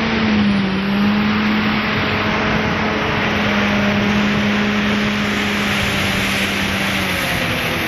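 Motorcycle engine running at a steady speed with heavy wind rush on the microphone. The engine note drops slightly about half a second in and fades away near the end.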